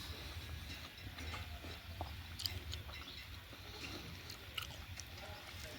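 A person chewing food, with scattered small wet clicks of the mouth over a low steady hum.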